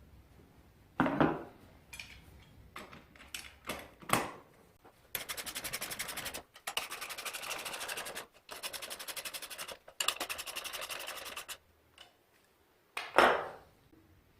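Workshop handling sounds: a few sharp knocks of parts or tools, and in the middle four bursts of fast, evenly spaced rasping clicks, each a second or two long.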